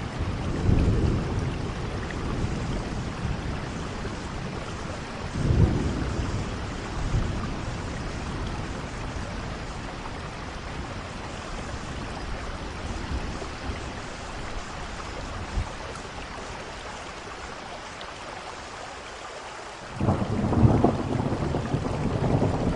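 Steady rain falling, with low rolls of thunder: one just after the start, a short one about five and a half seconds in, and a louder roll that begins suddenly near the end.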